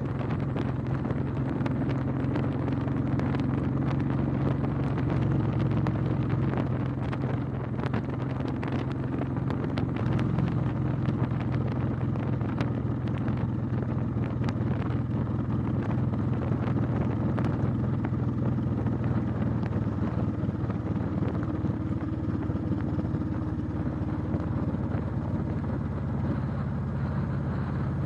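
Motorcycle engine running steadily while riding, its pitch holding fairly even, with a rushing noise over it.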